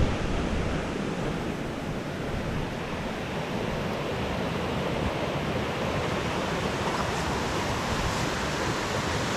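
Steady rush of falling water, an even unbroken roar, with some wind buffeting on the microphone.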